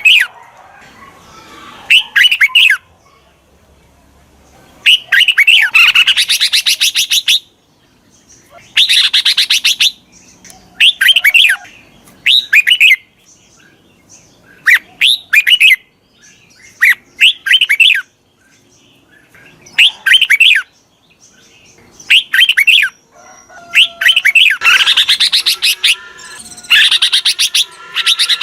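Red-whiskered bulbul calling in short, loud, bright phrases, about a dozen in all, each a quick run of repeated notes with brief pauses between. It is a decoy bulbul's song, used to call wild bulbuls in.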